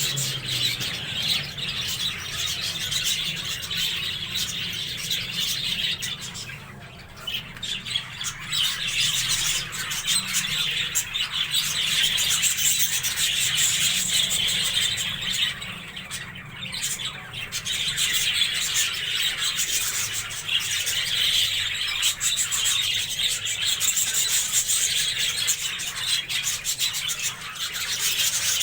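A colony of budgerigars chattering, chirping and squawking all together in a continuous busy din that dips briefly twice.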